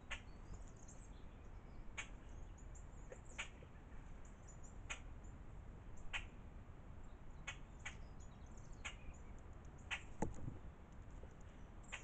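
Garden birds calling: short, sharp chip notes about once a second, with faint high chirping between them and a single low thump a little after ten seconds in.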